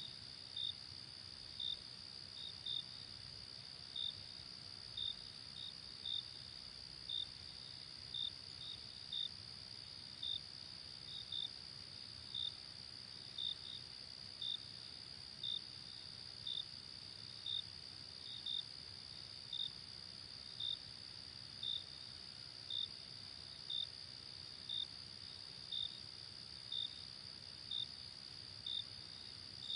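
Night insect chorus in a forest: a steady high trill with a cricket chirping over it about once a second, some chirps in quick pairs.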